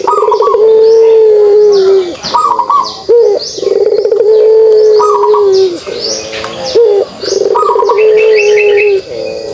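Puter pelung dove giving its kugeruk call: repeated phrases, each a short rising note followed by one long drawn-out low coo, about four phrases. Small birds chirp high in the background.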